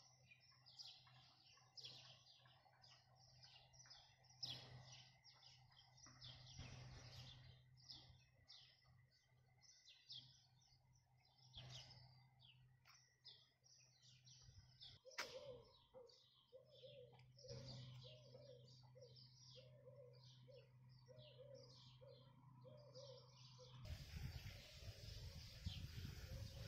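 Faint chorus of small birds chirping, many quick high chirps close together, over a low steady hum. In the second half a run of lower, evenly repeated notes joins in, and near the end a rush of noise covers everything.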